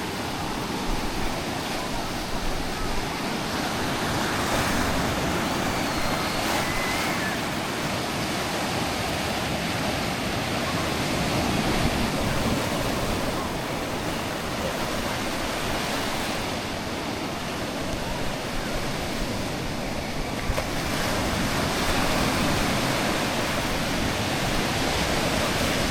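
Sea surf washing onto a beach: a steady rushing of waves.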